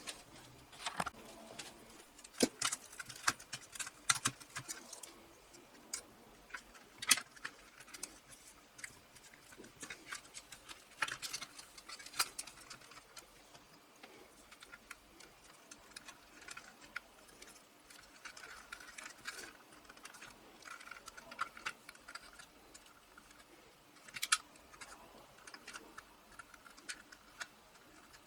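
Irregular light clicks and taps of small parts being handled and fitted by hand on a workbench, with louder clusters around a couple of seconds in, midway, and near the end.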